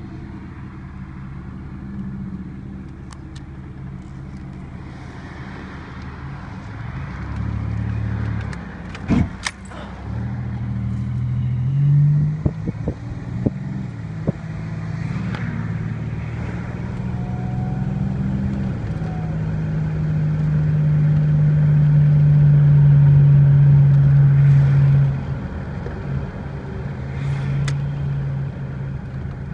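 1987 Buick Grand National's turbocharged 3.8-litre V6 running as the car is driven. The engine note steps up and down in pitch and swells to its loudest a little past twenty seconds, then drops off sharply. A few sharp clicks or knocks come around ten seconds and again a couple of seconds later.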